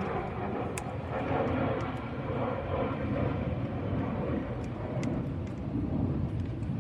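Steady background engine noise, like passing traffic, with a few faint small clicks.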